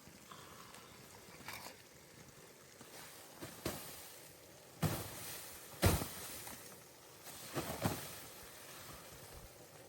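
A few separate, irregular knocks and clatters, the loudest about six seconds in.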